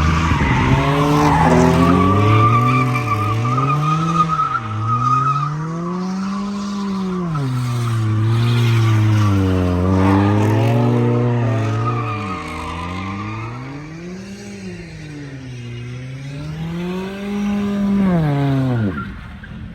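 Car engine revving hard, its pitch rising and falling again and again every couple of seconds, with tires squealing. The sound fades out near the end.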